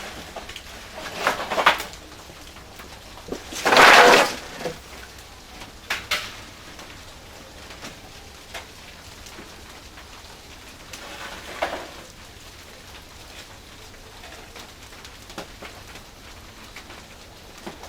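Wood fire burning in a traditional wood-fired kiln, crackling steadily, with a louder rush of noise lasting about a second, about four seconds in.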